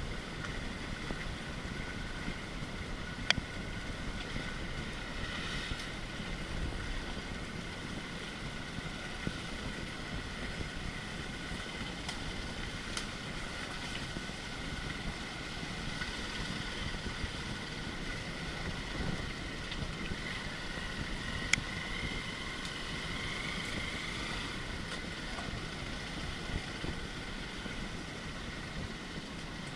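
Motorcycle engine running during an off-road ride, with steady wind rumble on the microphone and a few sharp clicks or knocks.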